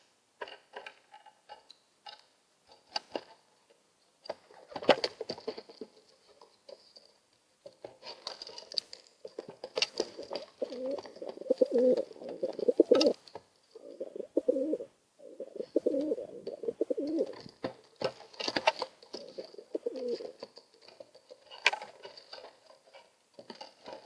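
Two pigeons cooing in repeated low, throaty bouts as they bicker over space, with a few sharp knocks or slaps between and during the coos.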